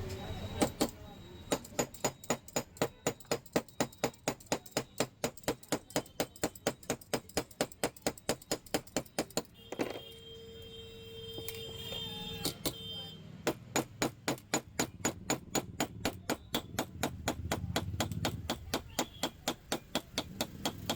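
Rapid, even hammer taps on the metal of a pressure cooker, about four a second, pausing for a few seconds midway, when a steady hum is heard.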